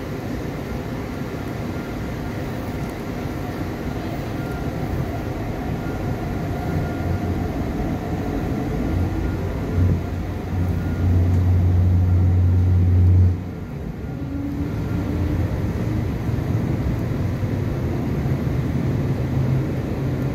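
MTR East Rail Line Hyundai Rotem R-train running through a station platform without stopping, a steady rumble of wheels and motors that slowly builds. A loud low hum rises for a few seconds and cuts off suddenly about thirteen seconds in.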